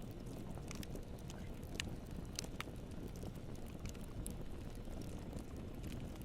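Campfire burning: a steady low rumble with scattered sharp crackles and pops, a few louder pops about two seconds in.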